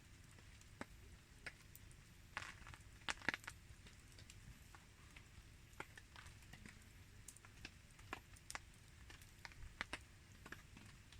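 Wood campfire crackling softly, with scattered irregular pops and ticks and a brief flurry of louder cracks about three seconds in.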